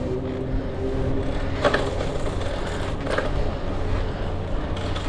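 Road traffic noise with a low, steady rumble, and a car going by. Two short, sharper noises come about a second and a half in and again about three seconds in.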